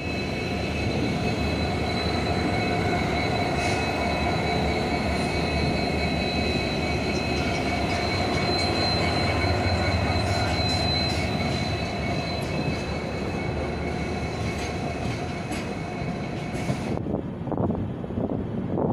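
Passenger train running slowly out of a station, heard through an open coach door: a steady running rumble with a high-pitched wheel squeal. The squeal cuts off about seventeen seconds in, leaving irregular wheel-and-rail clatter.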